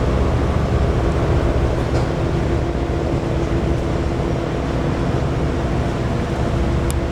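Tugboat's diesel engines running steadily, a low drone with a constant hum above it.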